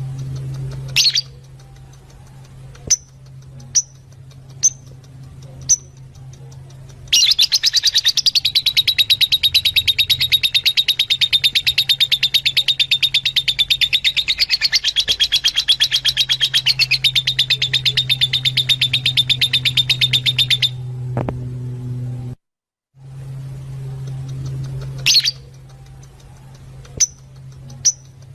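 Fischer's lovebirds calling: a few sharp single chirps, then a long run of rapid, continuous chattering that stops about 21 seconds in; after a brief cut the single chirps start again. A steady low hum runs underneath.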